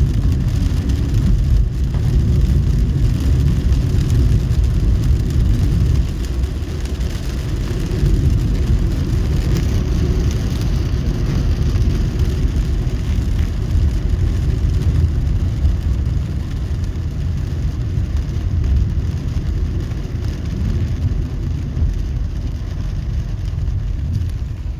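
Steady rumble of a car driving on a wet road in heavy rain: low engine and tyre noise with a lighter hiss of rain and spray over it.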